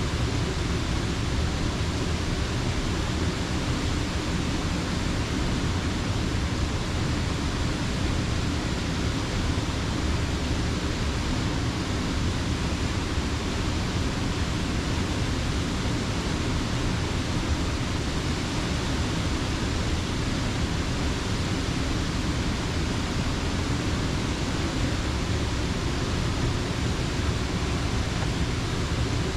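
Creek water pouring over a mill dam: a steady, even rush with no breaks.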